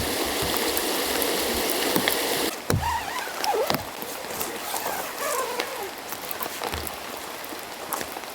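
Steady rain hissing, cut off abruptly about two and a half seconds in, giving way to quieter stream water with a few faint squeaky glides and light clicks.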